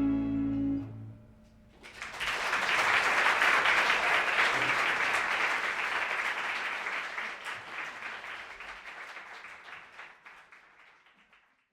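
The ensemble's last held chord, tenor saxophone over strings, piano and bass, ends about a second in; after a short pause an audience breaks into applause, which then fades out gradually.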